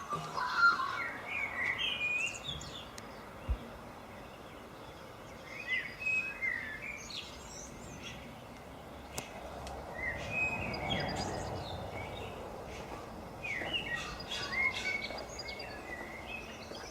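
Birds calling in four short bouts of quick, gliding chirps, with a single brief thump about three and a half seconds in.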